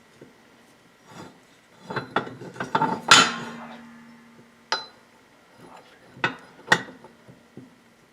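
Metal tools and parts clanking against steel while working on a VW front beam: a handful of sharp knocks, the loudest about three seconds in leaving a brief ringing tone, with lighter rattles between.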